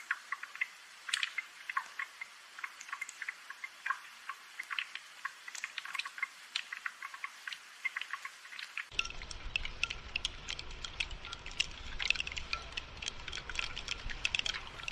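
Rain falling in a dense patter of small drops and drips. A low rumble joins in about nine seconds in.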